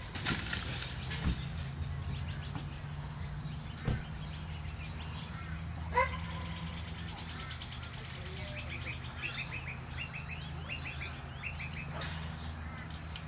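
Small birds chirping in quick repeated trills over a steady low hum, with a short pitched call about six seconds in and a few sharp knocks.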